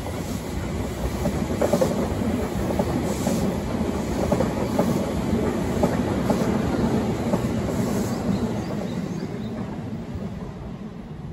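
JR Nambu Line electric commuter train passing below, its wheels clacking over rail joints about every second and a half. The rumble builds as the cars pass and fades near the end as the last car goes by.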